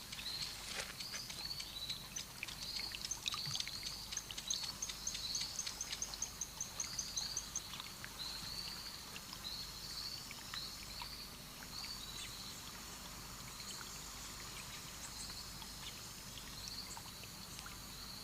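Tropical rainforest ambience by a stream: small creatures repeat short, high chirps over and over, with a quick run of higher ticking notes from about three to seven seconds in. Scattered clicks and a faint trickle of water sit under the calls.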